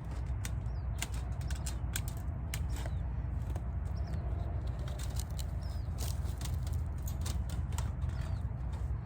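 Wire-mesh hardware cloth being handled and shifted into place, giving irregular light clicks and rattles. Faint short bird chirps and a steady low rumble run underneath.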